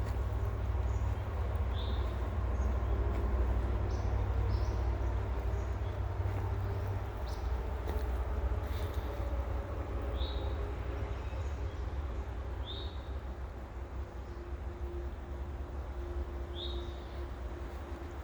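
Outdoor ambience: wind rumbling on the microphone, heaviest in the first several seconds. Over it, one short high chirp is repeated every two to four seconds.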